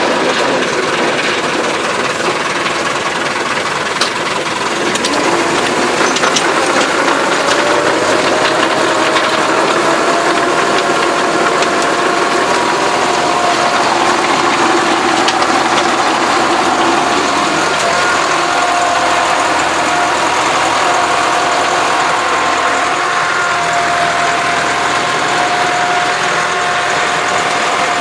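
Massey Ferguson tractor engine running steadily while working the soil, its pitch rising a little a few seconds in and then holding. A single sharp click about four seconds in.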